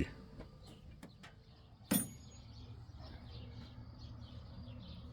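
Faint bird chirping, with one sharp click about two seconds in.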